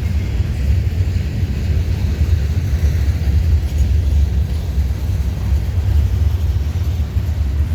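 Norfolk Southern manifest freight train rolling past, a steady low rumble.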